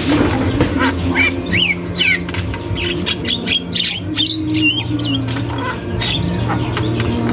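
Javan myna (jalak kebo) calling nonstop: a rapid mix of harsh squawks and clicks with short rising-and-falling whistled notes, over a steady low hum.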